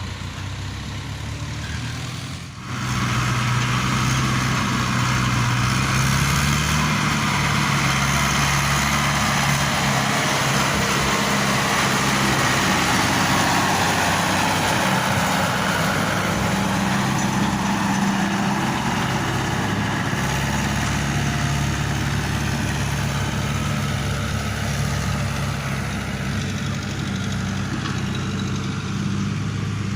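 Heavy vehicle's diesel engine running steadily, getting louder about two and a half seconds in and then holding a steady note.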